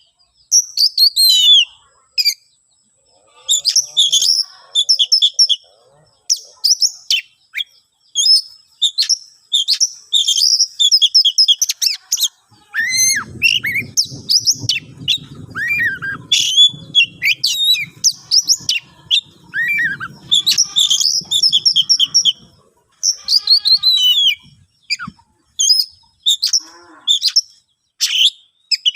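An oriental magpie-robin (kacer) singing aggressively: rapid bursts of varied whistles, chatters and slurred notes, phrase after phrase with short pauses between. A low rumble runs underneath for several seconds in the middle.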